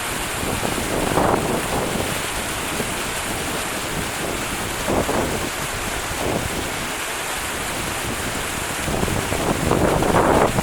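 Wind buffeting the microphone in gusts over a steady rushing noise, with the strongest gust near the end.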